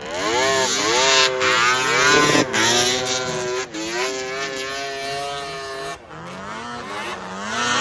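Vintage two-stroke snowmobile engine being ridden, its revs rising and falling, holding steadier in the middle and dropping briefly about six seconds in before climbing again.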